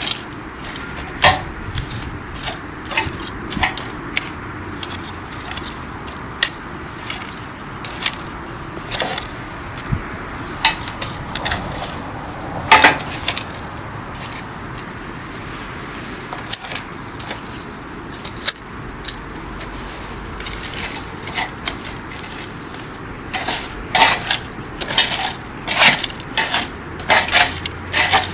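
Wood campfire burning, crackling and popping irregularly over a low steady hiss, with the pops coming thicker near the end.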